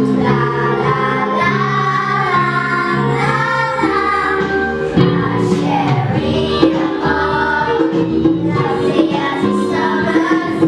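Music: a group of voices singing a melody over steady held chords.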